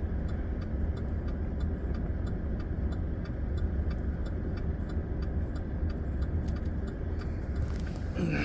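Parked vehicle's engine idling with a steady low rumble, heard from inside the cab, with a quick, regular light ticking over it.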